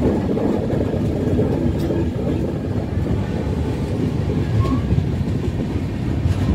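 Passenger express train running along the track: a steady noise of wheels on rails with occasional faint clicks.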